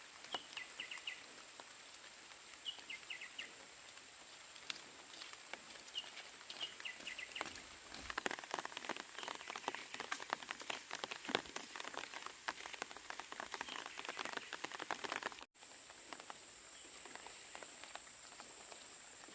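Outdoor ambience: small birds chirping in quick groups of three or four, over irregular light ticking and crackling that grows busier through the middle. About two thirds of the way in it cuts to a quieter, steadier hiss.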